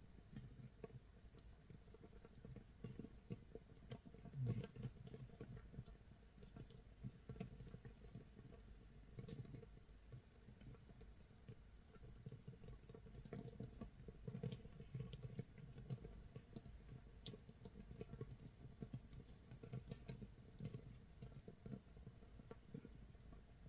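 Makgeolli base brew fermenting in a jar, 24 hours in: bubbles of gas popping at the surface of the mash in a faint, irregular crackling patter like light rain or firewood crackling, with a slightly louder flurry about four and a half seconds in.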